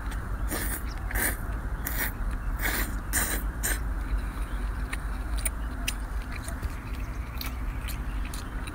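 A person slurping and chewing braised octopus tentacle, with many wet smacking clicks of the mouth, thickest in the first half and sparser later. A steady low rumble runs beneath.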